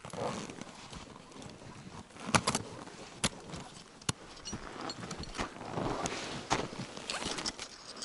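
Climber's footsteps crunching on snow and ice at an uneven pace, with a few sharp clicks.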